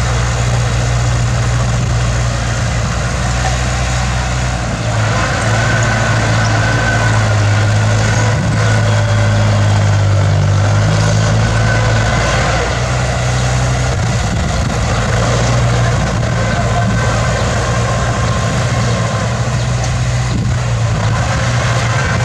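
Bulldozer's diesel engine running steadily, its note shifting about five seconds in and settling back near the middle.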